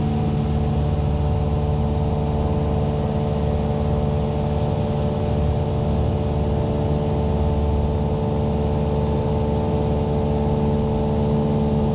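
Cessna 172's piston engine and propeller running steadily at climb power, an even drone heard inside the cabin.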